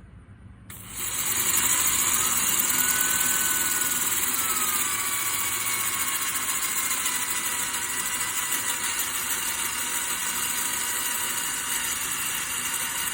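An electric power tool's motor starts about a second in and runs steadily, its whine dipping slowly in pitch as it works under load.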